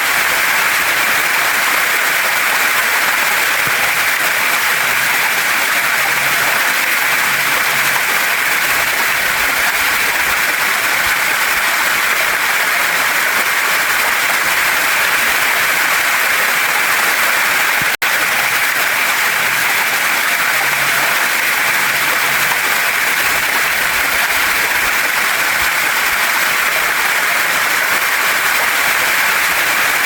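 Waterfall and stream water rushing steadily over rocks, an even hiss, broken once by a split-second dropout a little past halfway.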